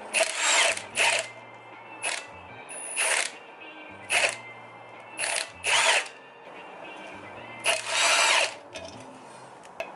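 A cordless power tool spinning in short runs, about eight times, some very brief and one near the end lasting close to a second, as the clutch pressure plate and flywheel bolts are undone. Background music plays underneath.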